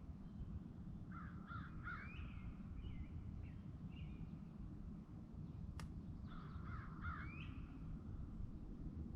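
A bird calls twice, each time a short cluster of harsh notes ending in a rising note, the second about five seconds after the first, over a steady low rumble. A single sharp click comes between the two calls.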